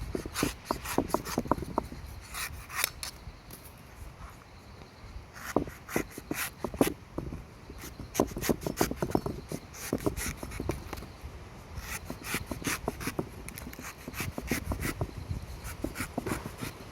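A knife cutting and shaving the husk of a king coconut: runs of quick slicing strokes and scrapes, with short pauses between runs.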